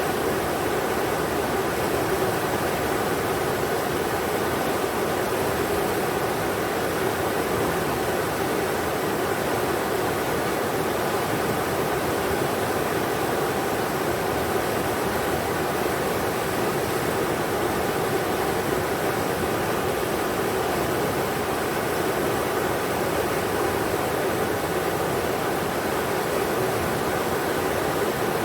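River water rushing over rocks, a steady even roar.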